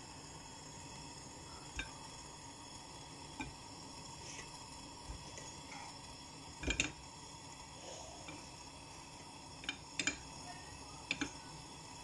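Occasional light clinks and knocks of kitchen utensils against dishes and pans, the loudest a double knock about seven seconds in, over a steady faint hum.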